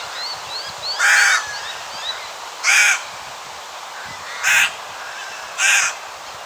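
Channel-billed cuckoo calling four times, harsh screeching caws about a second and a half apart. Faint chirps of small birds sound in the background, mostly in the first couple of seconds.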